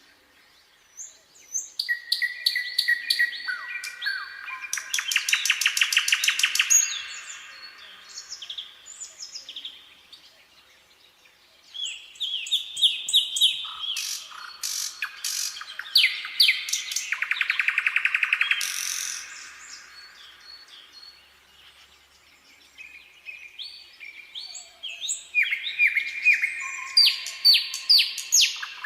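Nightingale singing: three bouts of song with short pauses between them, each a mix of clear whistled notes and fast rattling trills of one note repeated many times a second.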